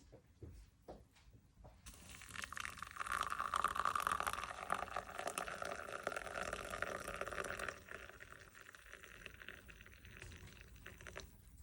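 Liquid pouring steadily into a container for about six seconds, starting about two seconds in and stopping abruptly near eight seconds, after a few light knocks.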